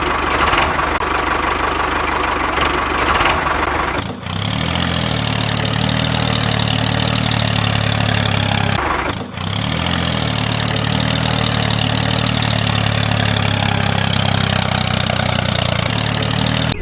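Engine idling steadily with a knocking rumble. It cuts out briefly about four seconds in and comes back heavier and lower, then breaks off briefly again about nine seconds in.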